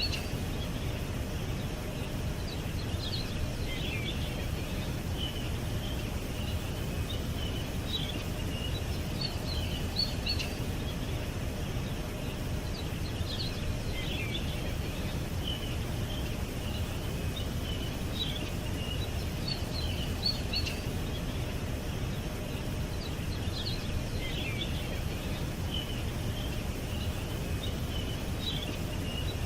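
Birds chirping in short bursts and trills every few seconds over a steady low outdoor rumble.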